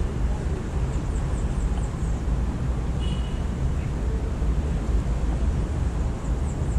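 Steady low rumble of city traffic. Over it a small bird gives a quick run of high, thin, falling chirps about a second in and again near the end, and there is a short call about three seconds in.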